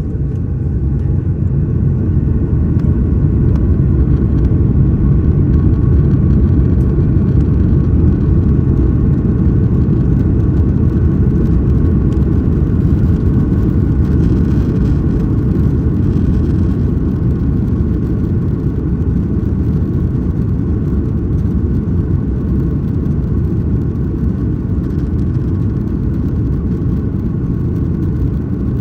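Jet airliner heard from inside the cabin during takeoff: the engines at high thrust give a loud, low, steady rumble with a faint whine above it. The rumble swells over the first few seconds, then eases off slightly.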